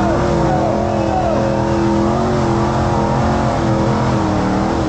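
High-horsepower off-road hill-climb vehicle engine running hard at high revs, holding a steady pitch that wavers only slightly.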